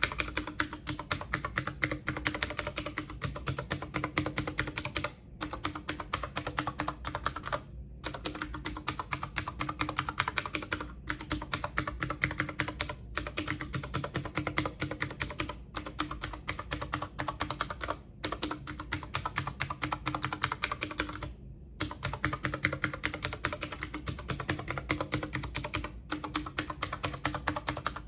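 Fast typing on a computer keyboard: a dense, continuous stream of key clicks, broken by a few brief pauses.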